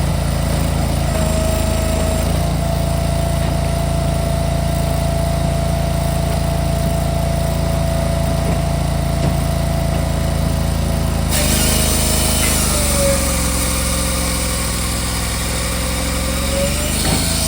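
Cord King 18-20R Turbo firewood processor running steadily with a constant whine. About eleven seconds in, a harsh noise joins it and the whine sags in pitch for a few seconds as the machine works under load.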